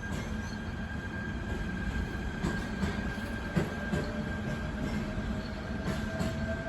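A train moving through the station at low speed: a steady rumble, a thin high wheel squeal, and a scattering of sharp clicks as wheels cross rail joints, with a second, lower whine coming in and rising slightly near the end.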